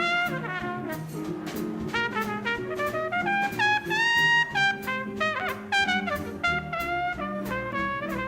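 Live swing band playing an instrumental break: a brass horn solos a bending melody line over upright bass, backing horns and a steady drum beat.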